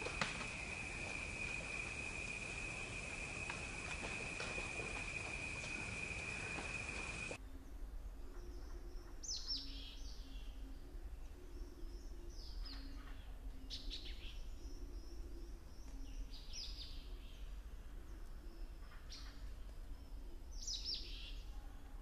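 A steady high insect drone for about the first seven seconds, which cuts off abruptly; then sharp, downward-sliding bird calls, one every couple of seconds, over a faint low hum.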